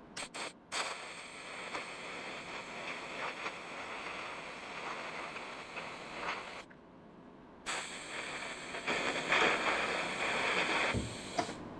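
Electric welding arc hissing and crackling on sheet-metal quarter-panel patches, filling holes around a marker-light opening. It runs in long stretches of several seconds, with a few short tacks at the start and a break of about a second just past the middle.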